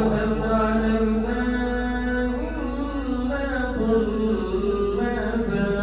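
A man's voice reciting the Quran in slow, melodic tajweed, holding long drawn-out notes that bend up and down in pitch.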